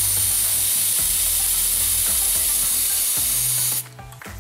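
Loud, steady hiss of air rushing out of a tyre through a rapid tyre deflator with the valve core removed; it cuts off abruptly near the end.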